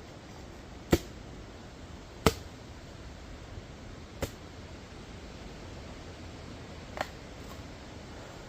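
Machete chopping into jelly coconuts: four sharp, single chops spaced unevenly, the first two the loudest, over a steady background hiss.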